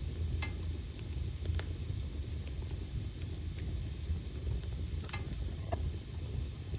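Wood fire burning in a fireplace: a steady low rumble of flames with scattered crackles and pops from the logs, and a couple of brief hissing whistles.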